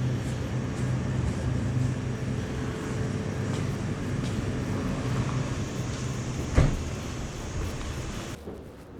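Yamaha YZF-R6 inline-four engine with an SC Project SC1-R exhaust running steadily with an even hum. A single sharp knock comes about two-thirds of the way in, and the sound drops off suddenly near the end.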